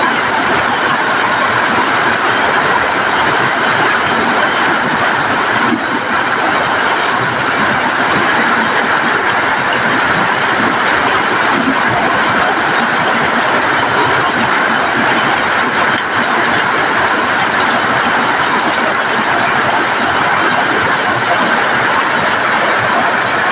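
Heavy rain pouring steadily onto corrugated sheet-metal roofs, a loud, even hiss with no letup.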